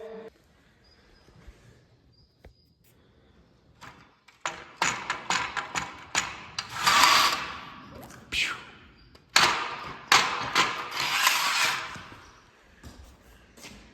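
Mostly quiet for the first few seconds, then a run of knocks and clatter with two spells of scraping, hissy noise, like things being handled and moved about.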